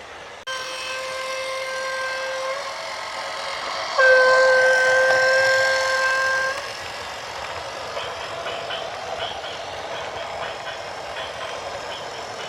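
A horn sounding in a long, steady held blast, much louder from about four seconds in until it stops at about six and a half seconds. After that a vehicle runs on with a light clatter.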